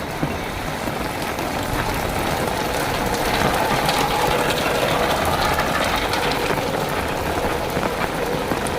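Steady heavy rain falling, a continuous hiss, with a faint engine-like drone underneath that swells about three seconds in and eases toward the end.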